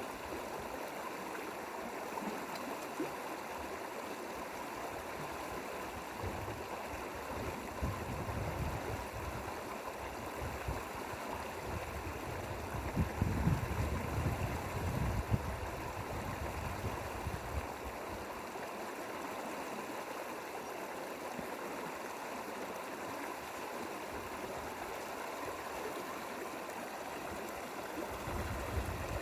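Mountain valley stream flowing over rocks: a steady rushing, babbling water sound, with a few deeper low rumbles around the middle.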